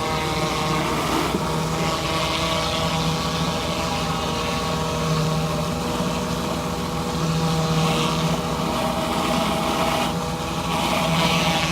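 Pressure washer engine running steadily while a Ryobi surface cleaner sprays water onto concrete. The spray hiss swells and fades a few times over the engine's even drone.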